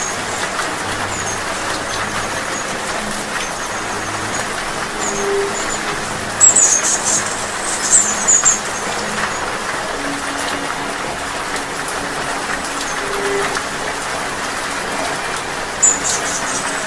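Steady rain with short, high, thin hummingbird chirps over it, the loudest about six and a half and eight seconds in and again near the end.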